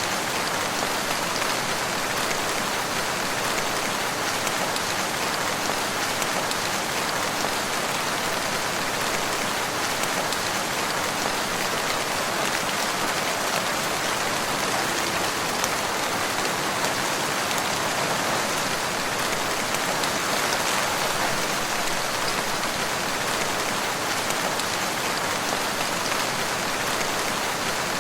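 Steady rain falling in a forest, an even patter of drops on leaves and ground.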